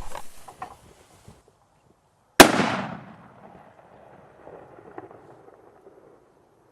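A blue UK firecracker detonating: a brief hissing with a few crackles, then a single sharp bang about two seconds in that echoes away over half a second.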